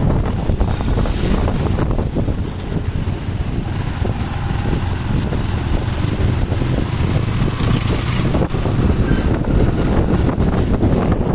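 Wind buffeting the microphone on a moving motorcycle, a steady low rumble with no clear engine note.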